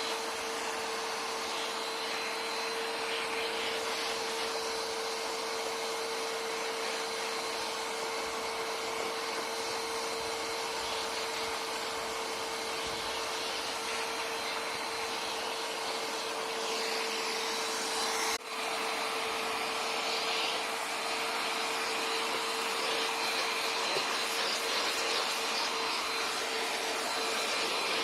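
Bagless vacuum cleaner running steadily with a constant motor whine as it sucks dust and dirt off an ATV, with a momentary drop in the sound about two-thirds of the way through.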